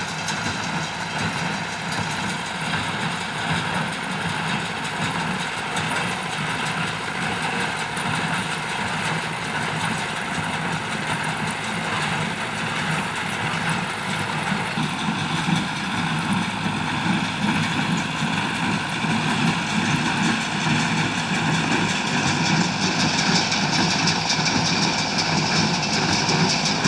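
Ford 5000 tractor running steadily with a New Holland BC5060 baler, a continuous machinery sound that grows somewhat louder and brighter about halfway through.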